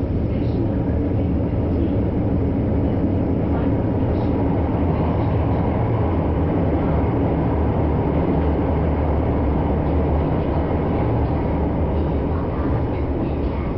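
Kyoto Municipal Subway Karasuma Line train running at steady speed, heard from inside the passenger car: a continuous rumble of wheels and motors with a low hum.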